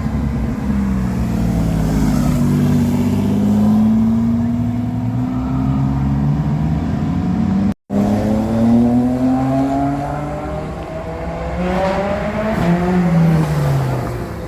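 Supercar engines accelerating, rising in pitch through several pulls as the cars drive by, with a falling pitch near the end. The sound drops out for an instant about halfway through.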